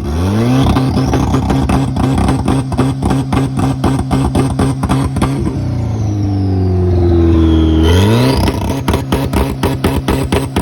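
Car engine revving hard: it climbs quickly at the start and is held high with a rapid stuttering crackle, drops lower about six seconds in, then climbs again near the end.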